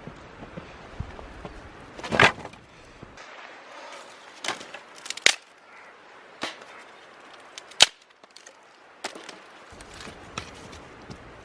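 Firewood being split: about seven sharp, irregular knocks of wood, the loudest about two seconds in.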